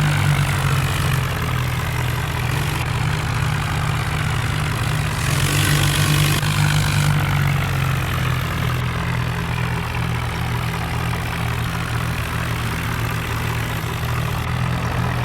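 Tractor diesel engine running steadily with a low, even drone, with a burst of louder higher-pitched noise about five to seven seconds in.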